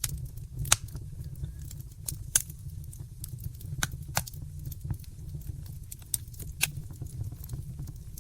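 Wood fire burning in a fireplace, crackling: irregular sharp pops and snaps over a steady low rumble, with a couple of louder pops in the first few seconds.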